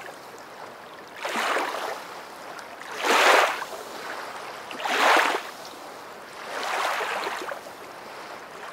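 Water washing in slow, even swells like small waves: four soft rushes about two seconds apart.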